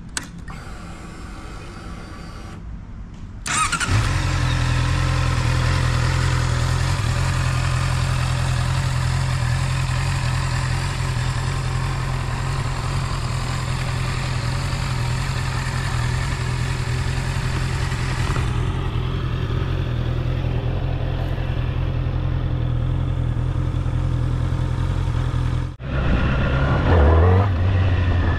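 Honda CB650R's inline-four engine: a faint whir for the first few seconds, then the engine fires about three and a half seconds in and settles into a steady idle. Near the end it revs up with rising pitch as the bike pulls away.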